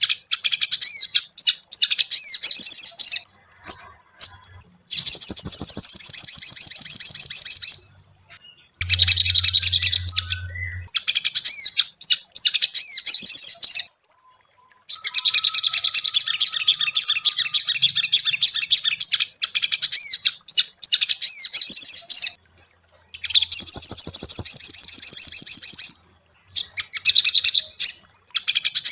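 Ruby-cheeked sunbird (sogon) singing: long bouts of rapid, high twittering chirps, broken now and then by pauses of a second or so.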